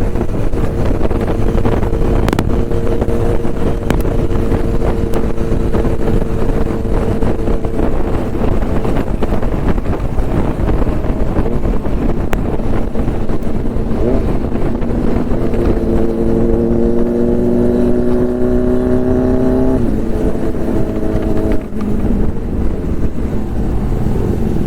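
Motorcycle engine running at speed with heavy wind and road rush. About two-thirds of the way in its pitch climbs steadily for a few seconds, then drops suddenly, as in an acceleration followed by a gear change.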